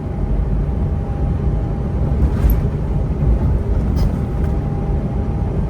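Steady low rumble of a semi-truck's engine and tyres heard from inside the cab while cruising on the highway, with a faint steady whine running through it.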